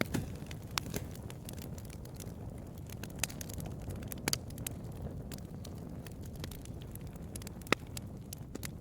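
Bonfire crackling: a steady low rumble of the burning fire with scattered sharp pops and snaps, the loudest near the end.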